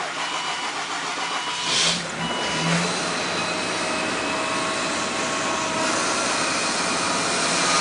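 2000 Mazda MPV's 2.5-litre V6 cranking briefly in deep cold (−22 °C) and catching about two to three seconds in, then running at a steady cold idle. A dashboard warning chime beeps over the first second and a half.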